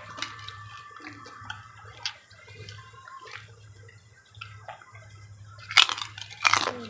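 Crunchy macaroni chicharon being bitten and chewed: scattered short crisp crunches, with a louder cluster of crackles about six seconds in.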